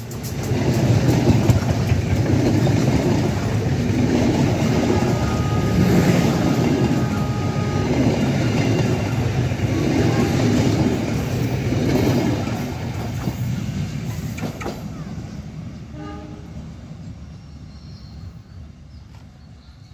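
Passenger train carriages rolling past close by, wheels clacking over rail joints in a repeating rhythm under a steady rumble. About thirteen seconds in the sound fades away as the train draws off down the line.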